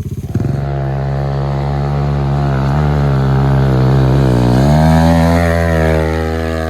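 Pit bike engine jumping from idle to high revs and held hard under load on a steep hill climb, the pitch dipping briefly about four seconds in before rising again, then easing near the end.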